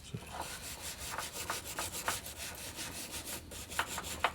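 A hand brush scrubbing grime off the metal body of a Kurt milling machine vise, in quick rubbing strokes with a few sharper ticks. The brush is too soft for the caked-on crud.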